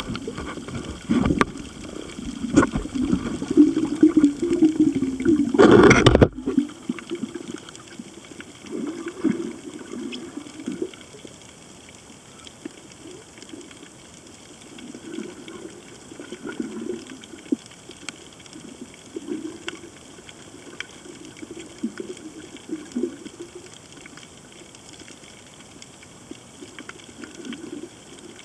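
Underwater sound at a coral reef, heard through a camera housing. For about six seconds the water rumbles and gushes heavily, then cuts off sharply. After that it settles to a quieter wash, with recurring low gurgling swells and faint scattered clicks.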